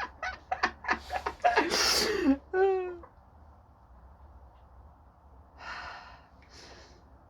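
A person's sharp, breathy gasps: a quick run of clicks and a loud gasp in the first two seconds, a short voiced sound falling in pitch, then two softer breaths near the end.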